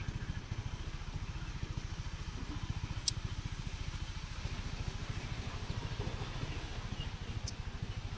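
Honda CB350RS's air-cooled single-cylinder engine running with a fast, even low pulse.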